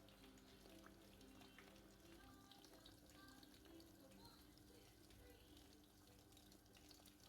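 Very faint sizzling and light crackling of fish pakoras frying in hot oil, under quiet background music.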